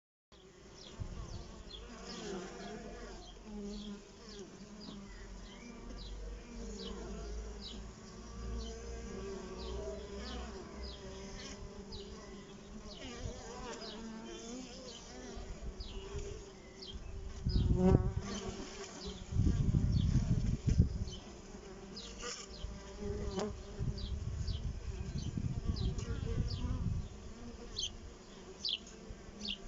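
Honeybees buzzing steadily in flight around a beehive entrance. Loud low rumbles break in several times in the second half.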